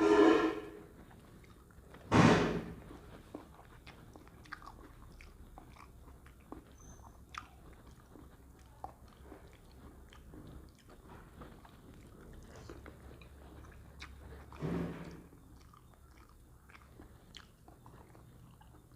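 A person chewing food, with soft, irregular mouth clicks. Louder brief sounds come near the start, about two seconds in, and again around fifteen seconds in.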